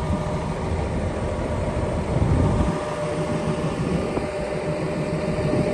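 Kenworth W900 mixer truck's diesel engine running at a steady idle: a continuous low rumble with a faint steady hum over it.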